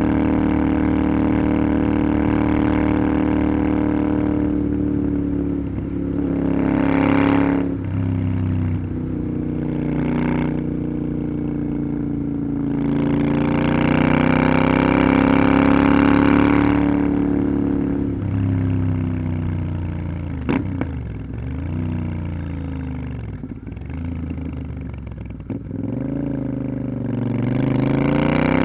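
Motorcycle engine on the move, heard from the rider's position. Its pitch rises and falls as it accelerates and eases off, dropping several times as it slows about two-thirds of the way through and climbing again near the end. Gusts of wind noise rush in and out over it.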